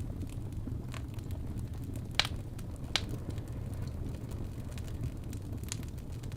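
Wood fire burning in a fireplace: a steady low rumble of the flames with a few sharp crackles and pops from the logs, the loudest about two seconds in and another a second later.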